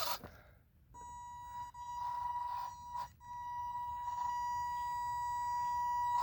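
Electric drive motor and speed controller of an MN82 1/12-scale RC crawler whining steadily at very light throttle. The high, even whine comes in about a second in, drops out briefly around the middle and resumes.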